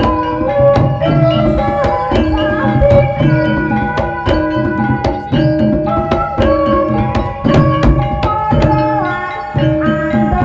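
Live gamelan music accompanying a jaran kepang (ebeg) dance: kendang hand-drum strokes over a steady, repeating pattern of pitched percussion notes.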